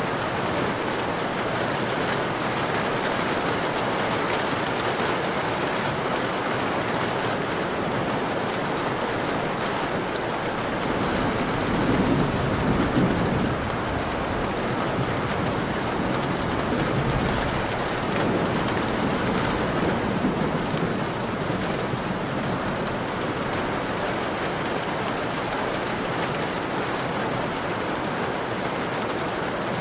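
Steady rain pattering on a window pane, with low rolls of thunder swelling about twelve seconds in and again a few seconds later.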